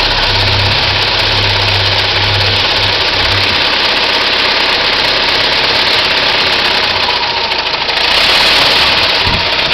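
1909 Ford Model T's four-cylinder engine running, with a low hum that drops away a few seconds in and a low thump near the end.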